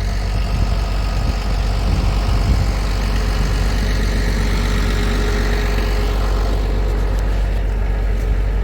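International 1066 tractor's diesel engine idling steadily.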